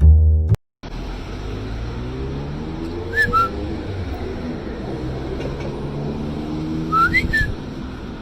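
Short two-note whistles, twice, a few seconds apart, over the steady hum of a vehicle in motion whose engine pitch slowly rises and falls.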